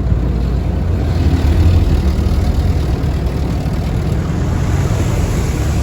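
Automatic car wash machinery running: a steady low rumble with a rushing noise, swelling briefly a second or two in.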